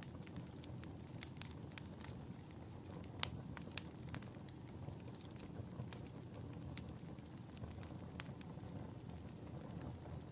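Wood fire in a fireplace crackling: irregular sharp pops over a low, steady rumble of flame, the loudest pop about three seconds in.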